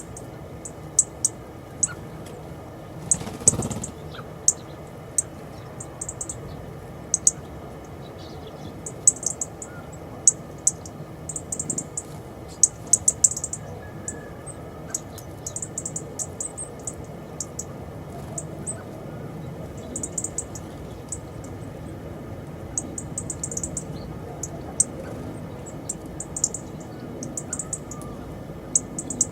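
Small garden birds chirping: very short, high-pitched calls repeated in quick clusters throughout, with a brief rushing noise about three seconds in.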